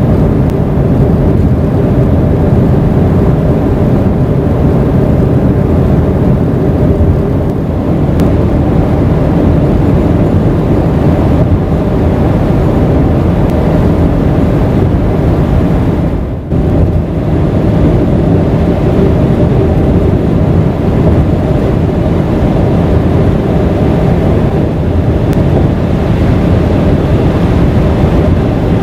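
Subaru Crosstrek e-BOXER's 2.0-litre FB20 flat-four hybrid driving at speed: a loud, steady mix of engine, tyre and wind noise. The level drops briefly a little past halfway, then returns.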